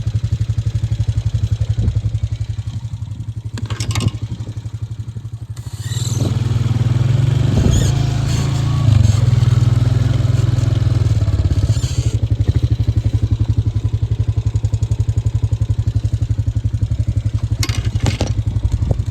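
A small single-cylinder motorbike-type engine running steadily at idle. It gets louder for several seconds near the middle. A few sharp clicks and rattles come from a reel being wound in by hand.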